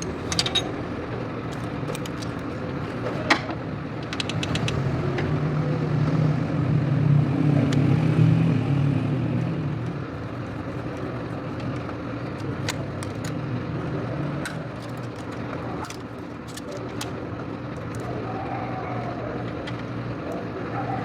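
Car engine running steadily. It grows louder for several seconds near the middle, then settles back, with scattered sharp clicks over it.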